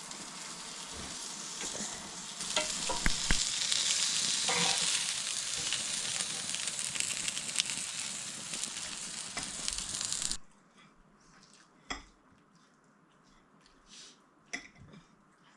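Chicken and vegetables sizzling on a gas barbecue hotplate, a steady hiss that grows louder about two seconds in, with a few sharp clicks. About ten seconds in it cuts off abruptly, leaving a quiet stretch with occasional faint clicks.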